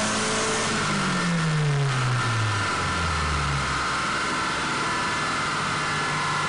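Turbocharged truck engine on a chassis dyno coming off the end of a wide-open-throttle pull, its revs falling steadily from about a second in, over a continuous high whine.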